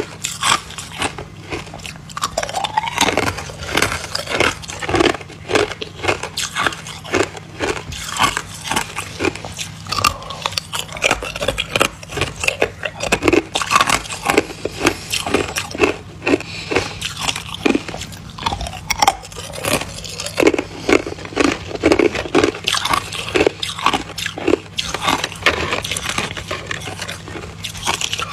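Close-miked biting and chewing of hard ice cubes and crushed ice: dense, irregular crunching, several bites a second.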